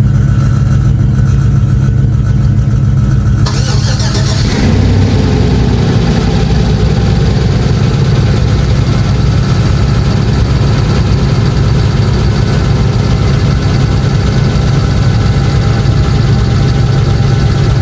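A 2005 Chevrolet Tahoe's V8 cold-starting: the starter cranks for about a second, about three and a half seconds in, then the engine catches with a rise in revs and settles into a steady cold-start idle.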